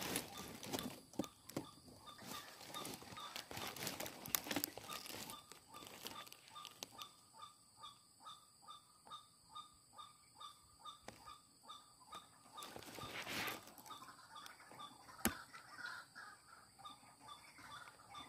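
Rustling and light handling knocks at first, then a bird calling in a fast, even series of short notes, about two or three a second, over a steady high hum. A single sharp click sounds near the end.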